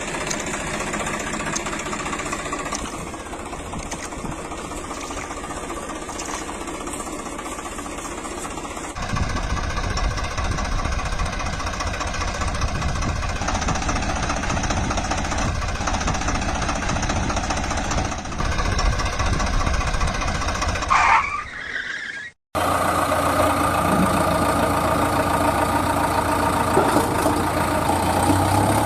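Engine running steadily in several spliced segments, the middle one with a heavier low rumble; a short rising-and-falling tone near 21 seconds, then an abrupt cut and another steady engine stretch.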